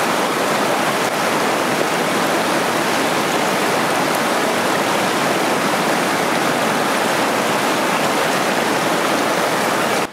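Waterfall cascade over rocks, water rushing and splashing in a steady, loud roar of white noise.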